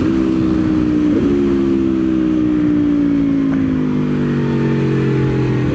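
Aprilia Tuono V4's V4 engine heard onboard at track speed over wind noise. The engine note jumps briefly about a second in, then the revs fall slowly and steadily for several seconds before stepping up again near the end.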